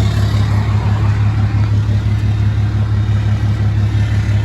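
Pickup truck engine idling steadily with a constant low hum.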